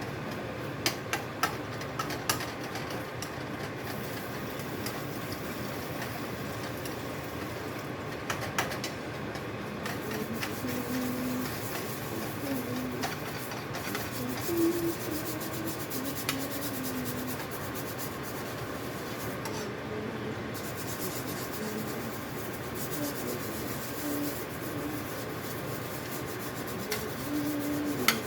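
Steady hiss of food cooking in a pan on the stovetop, with a few sharp utensil clicks in the first two seconds.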